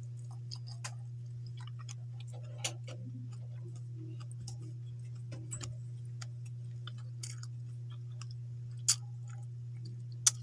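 Close-up chewing and small lip smacks of someone eating rice by hand, scattered soft clicks over a steady low hum, with two sharper clicks near the end.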